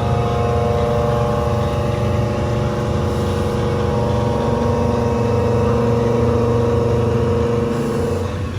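CNC milling machine cutting metal with a 50 mm Seco Tools milling cutter at 1200 rpm, feeding 1000 mm/min at 13 mm depth: a steady rumble with a ringing cutting tone. The tone stops abruptly just before the end.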